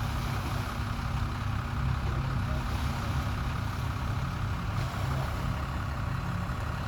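Steady low rumble of a vehicle engine idling, with wind buffeting the microphone.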